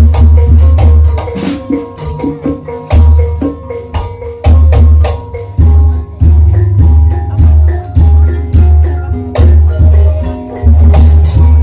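Loud Javanese gamelan-style music accompanying an ebeg dance: struck tuned bars playing steady melodic notes over deep booming beats that repeat about once a second, with sharp drum and rattling percussion strokes.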